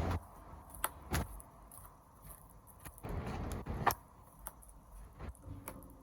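Wood fire crackling: several sharp, irregular pops and snaps, with a brief swell of hissing noise about three seconds in.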